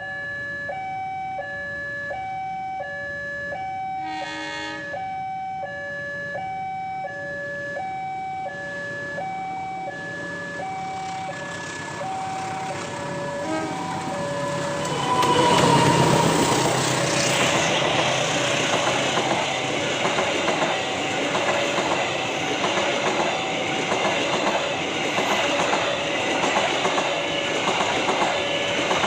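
Railway level-crossing warning alarm sounding a two-note alternating tone. About fifteen seconds in, a train passes close by, much louder, its wheels clattering rhythmically over the rail joints, while the alarm keeps sounding.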